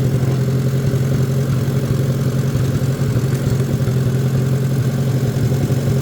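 Farmall A tractor's four-cylinder engine running steadily.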